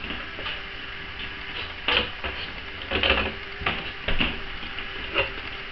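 About five sharp, irregularly spaced knocks and clatters as laminate flooring and a T-mold transition track are worked loose.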